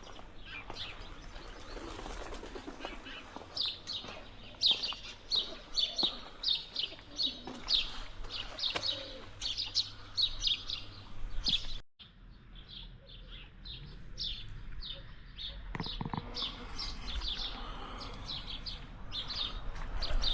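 Birds chirping: a dense run of short, high chirps, several a second, broken off sharply about two-thirds of the way through before the chirping resumes.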